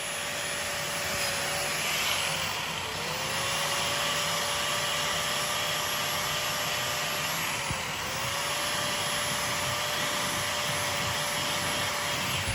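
Electric angle grinder running steadily, its pitch sagging briefly twice as it is pressed into the metal.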